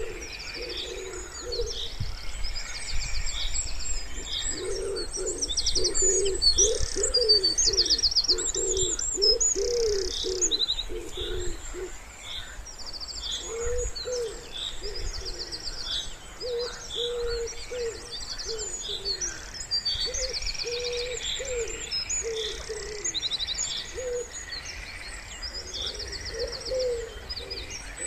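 Wood pigeons cooing in repeated low phrases, loudest from about five to eleven seconds in, while small songbirds chirp and trill high above them throughout.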